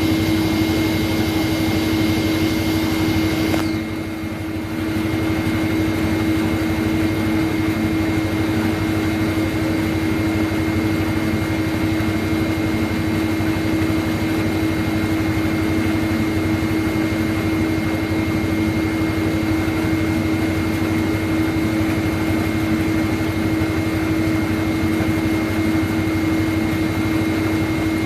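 Steady mechanical hum from a running machine, with a constant low tone over an even rush of noise. It dips briefly about four seconds in, then carries on unchanged.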